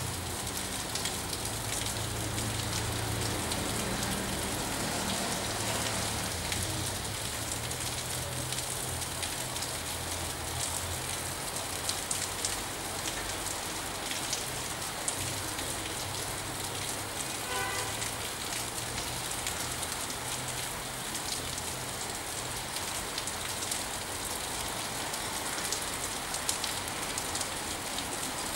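Steady rain falling, an even continuous hiss of fine drop patter, with a low rumble underneath.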